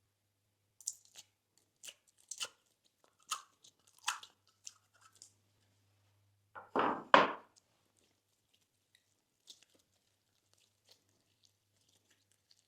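Slime being mixed and pressed by hand: scattered small crackles and clicks, with two louder squishes close together about seven seconds in.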